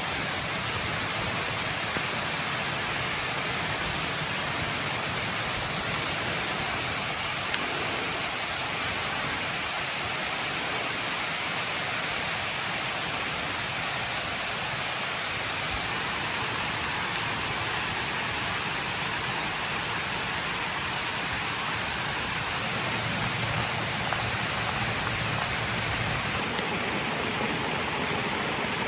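Steady rain falling, an even hiss with no distinct drops standing out, with one small tap about seven seconds in.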